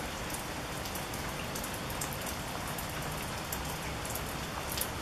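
Steady rain falling, a dense even hiss with many small drop ticks pattering on surfaces.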